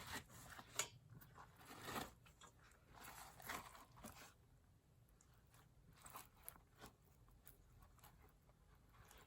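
Faint, scattered clicks and short rustles of things being handled, busiest in the first four seconds, then a few soft ticks over near silence.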